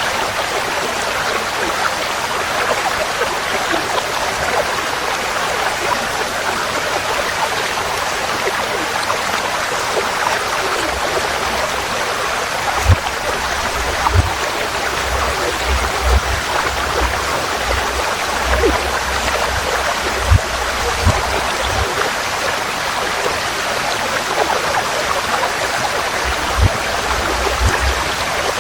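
Forest stream flowing: a steady rushing of water, with occasional short low thumps in the second half.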